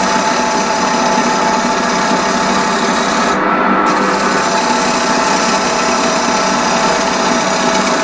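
Union Jubilee wood lathe running, with a turning tool cutting a spinning wooden blank that is still out of round. The steady rasping cut is over the lathe's hum, and the cut stops for a moment about three and a half seconds in.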